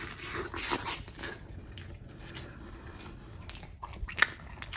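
Close-up chewing of a mouthful of pizza, with a few crunchy bursts in the first second and a half, then softer chewing. A sharp click about four seconds in is the loudest sound.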